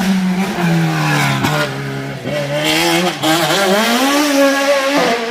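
Competition car's engine driven hard on a slalom course, its pitch falling and climbing again several times, with brief dips as the driver lifts off or shifts.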